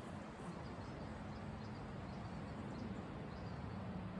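Steady wind on the microphone, faint, with a faint low hum under it.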